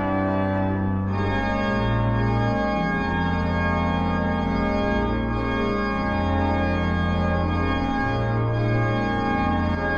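Synagogue sanctuary pipe organ playing sustained full chords over a low bass line that moves to a new note every second or two, with more high tones joining about a second in.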